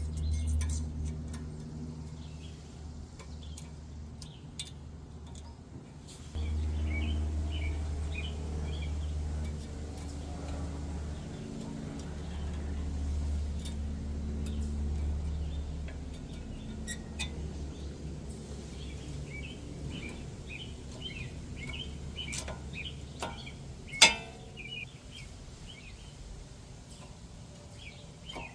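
Outdoor background of small birds chirping over a low rumble that swells and fades, with scattered light clicks and one sharp click about 24 seconds in.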